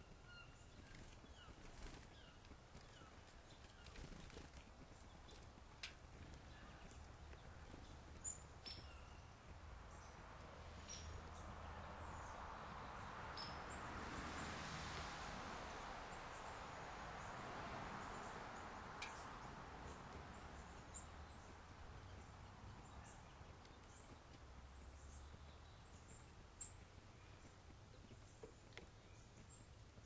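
Faint outdoor ambience with scattered short, high chirps from small wild birds and a few sharp clicks. A broad rushing noise swells and fades over several seconds in the middle.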